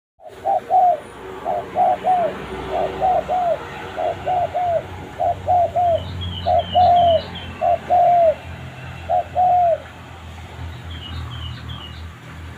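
A caged pet dove cooing a short phrase of two or three notes, repeated about once a second and stopping about ten seconds in. Thin high chirps from a small bird come twice behind it.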